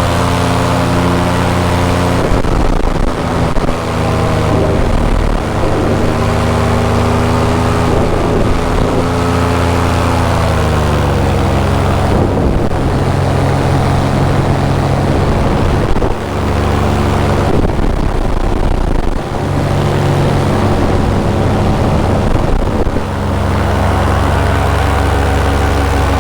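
Paramotor engine and propeller running in flight, its pitch dipping and rising a few times as the throttle changes.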